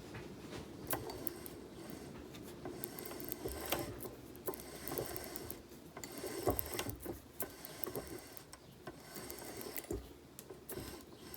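Spanner work on a miniature locomotive's wheels and connecting rods: irregular metallic clicking and clinking of hand tools and parts.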